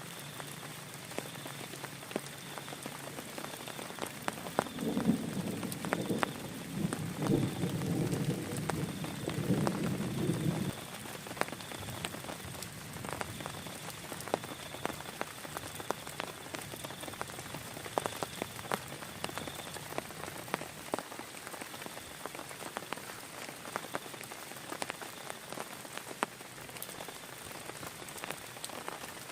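Heavy rain falling steadily, with many separate drops striking a surface close by. For about six seconds in the middle a louder, deeper sound joins the rain, then cuts off abruptly.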